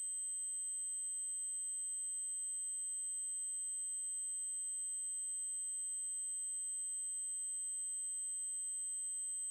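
Steady synthesized 8192 Hz triangle-wave test tone: a continuous, unchanging high-pitched whine.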